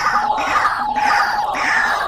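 White-breasted waterhen (truwok) calling: a loud, harsh call repeated over and over, about two calls a second.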